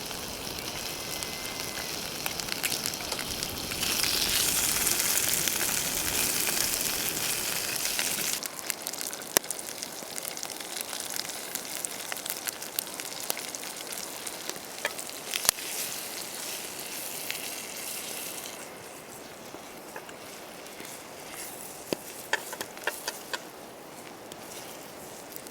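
Food frying and sizzling in a pan over a campfire, with sharp crackles and pops. The sizzle swells loudest for a few seconds about four seconds in, then settles lower and fades further near the end.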